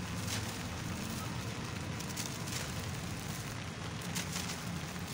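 Steady rain falling, with a few faint crackling ticks mixed in.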